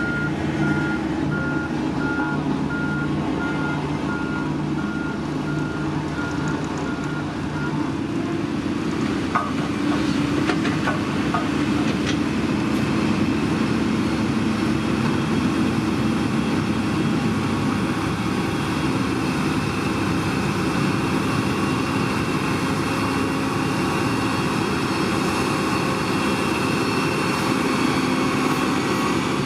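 Heavy construction machine's reversing alarm sounding a steady series of single-tone beeps that stop about eight seconds in, over a diesel engine running steadily throughout.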